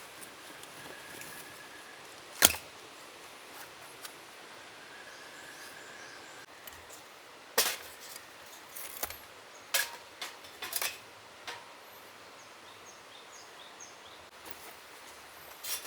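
Scattered sharp clicks and snaps, the loudest about two and a half seconds in and a cluster in the middle, over a steady faint forest hiss with faint thin bird calls.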